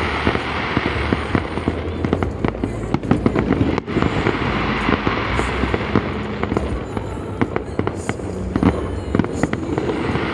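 Fireworks finale: a dense, unbroken barrage of overlapping bangs and crackles from many shells fired in quick succession, the closing salvos of the display.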